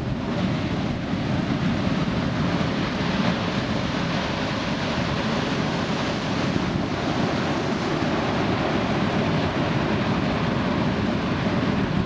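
Steady rushing noise with no pitched sound or distinct events, heaviest in the low range.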